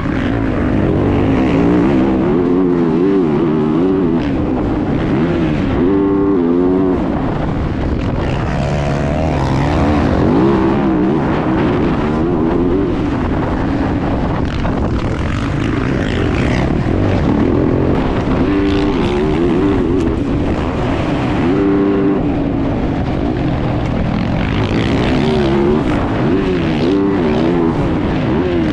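Motocross bike engine, heard close up from an onboard camera, revving up and down over and over as the rider works the throttle and gears around the track.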